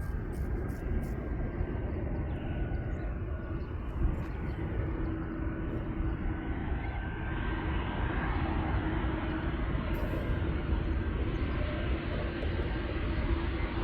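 Jet airliner on landing approach: a steady engine rumble with a faint whine, growing louder over the second half.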